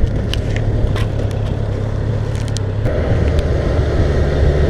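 Kawasaki Z900's inline-four engine running steadily under way, with wind noise. About three seconds in the engine note changes and a higher steady tone joins it.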